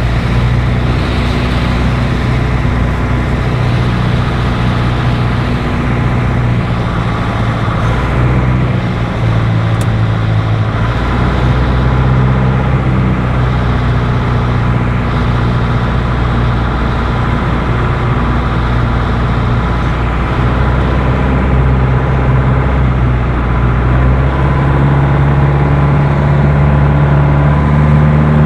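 Piper light aircraft's piston engine and propeller running steadily on a crosswind landing approach, a loud droning note. Its pitch shifts about a third of the way in and again near the end.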